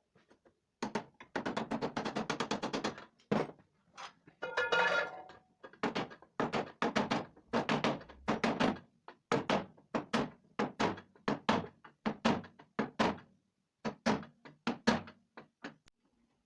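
Repeated hammer blows on metal: a quick run of taps, one strike that rings about four and a half seconds in, then steady knocks about two a second. This is the worn 6202 ball bearing of an Inox grain mill's motor being knocked out and replaced.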